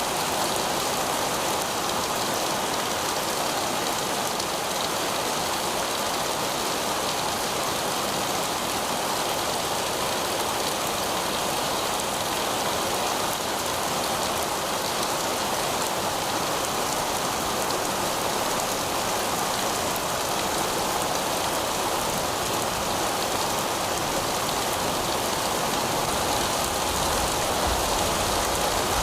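Heavy rain falling steadily on pavement, a dense even patter of drops. A low rumble comes in briefly near the end.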